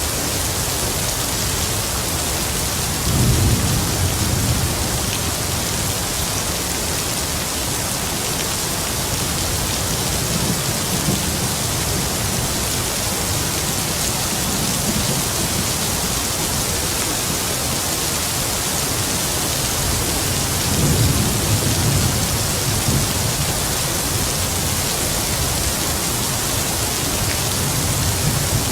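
Heavy rain falling steadily, with distant thunder rumbling low twice, about three seconds in and again near the twenty-first second, and fainter rumbles in between.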